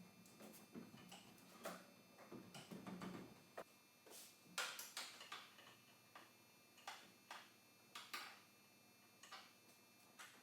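Faint, irregular clicks and light knocks, about a dozen, scattered over near silence, the loudest about halfway through.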